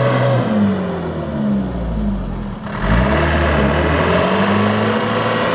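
Heavy truck's diesel engine revving: the pitch sags over the first two seconds or so, dips low, then climbs again about three seconds in and holds high under load. This is a loaded truck straining to pull out of slippery mud.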